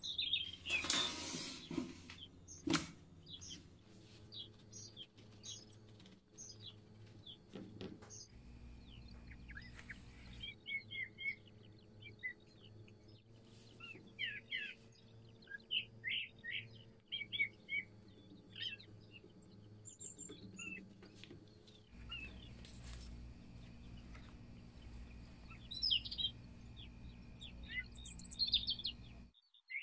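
Small birds chirping again and again in short calls in the background, with a brief rustling knock about a second in and a few soft clicks later on.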